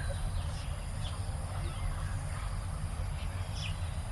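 Garden birds chirping: a few short, high chirps scattered over a steady low rumble.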